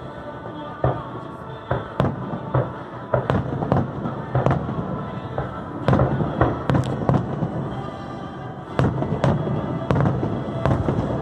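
Aerial fireworks bursting in quick succession, many sharp bangs, clustered most densely about six to seven seconds in, with the show's music playing underneath.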